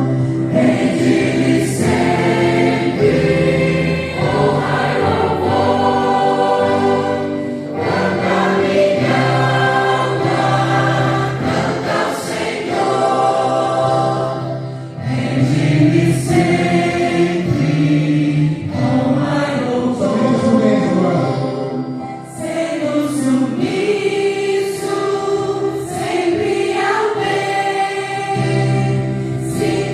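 Choir singing a hymn in harmony, over sustained low accompaniment notes.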